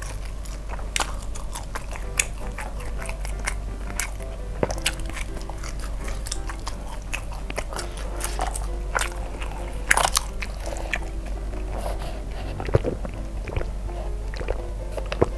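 Close-miked mouth sounds of a person chewing dim sum: irregular wet smacks and clicks of lips and teeth, with soft background music underneath.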